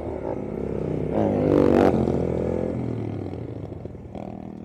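Yamaha YBR 125G's single-cylinder 125 cc four-stroke engine pulling away and accelerating, with a louder rising swell about one and a half seconds in that then eases off.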